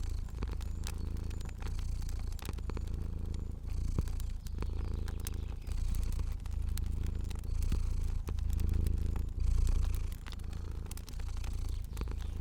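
Domestic cat purring in a steady low rumble that swells and eases in cycles about every two seconds, with the irregular small clicks of a crackling fire throughout.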